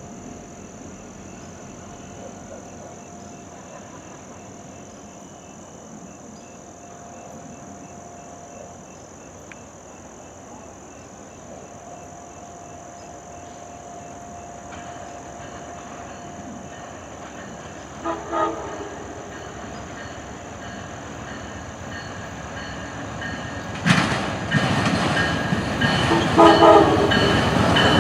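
Passenger train approaching and sounding its horn: two short blasts about two-thirds of the way in, then another blast near the end. Before that last blast the train's rumble and wheel noise rise sharply and grow loud.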